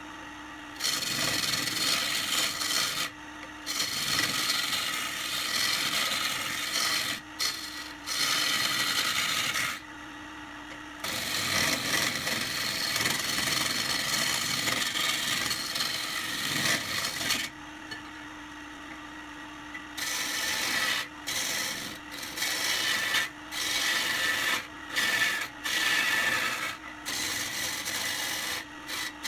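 Wood lathe running with a turning tool held against the spinning wood, giving a hissing scrape in stretches of a few seconds. Short gaps break it where the tool comes off and only the lathe's steady hum remains.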